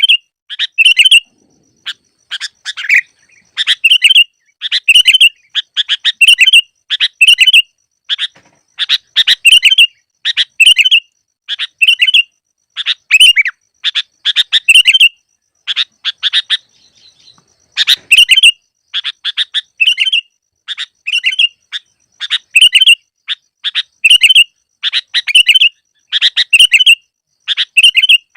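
Sooty-headed bulbul (kutilang) calling over and over in short, bright chirping phrases, about one or two a second, with a brief lull about two-thirds of the way in. It is a masteran recording used to lure bulbuls for trapping.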